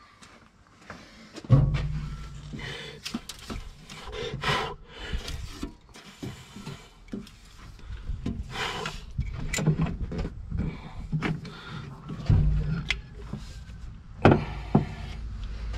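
Metal parts and hand tools being handled while a tractor's gear-shift cover is taken apart: irregular knocks, clinks and scraping of metal on metal.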